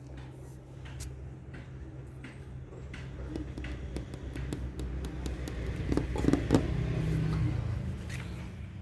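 A low engine hum, as of a road vehicle, grows louder through the middle, peaks and then fades away, like a vehicle passing by. Scattered small clicks and taps sound over it.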